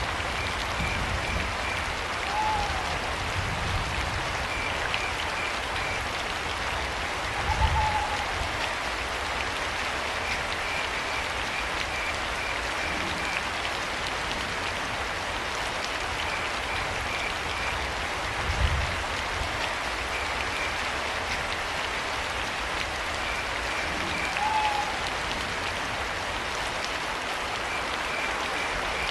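Steady rain falling in a forest at night, with crickets chirping in short pulsed trills every few seconds. A brief owl call sounds four times, and two low thumps stand out about eight and eighteen seconds in.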